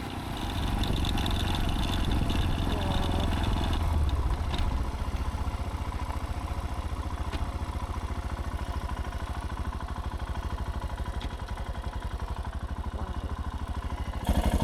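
Royal Enfield Himalayan 411's single-cylinder engine running. It is louder for the first four seconds, then settles into a steady, even low thumping rhythm, which gets louder again near the end.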